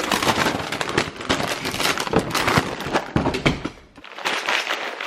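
Rapid, irregular crackling and rustling handling noise that cuts off abruptly about four seconds in.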